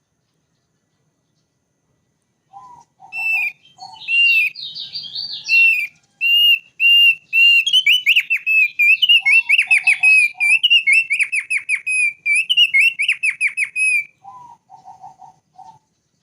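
Thick-billed white-eye singing: after a couple of seconds of silence, a loud run of repeated high slurred whistles, speeding into fast downward-sweeping notes. Groups of short, lower notes come in at the start, the middle and the end.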